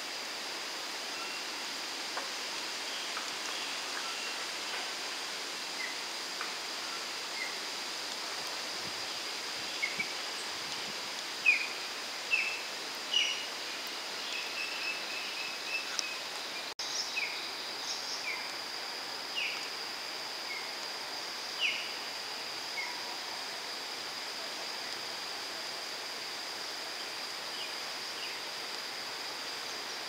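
Birds giving short, sharp chirps over a steady outdoor hiss and a continuous thin high tone. The calls come mostly in the middle stretch, with the loudest ones about a third of the way in.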